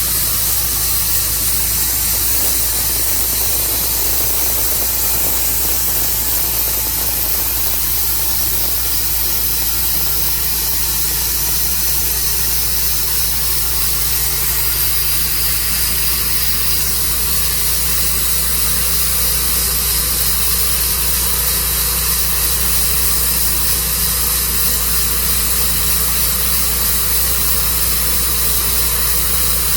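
Sawmill running steadily: an engine with a constant hiss over it, unchanging throughout.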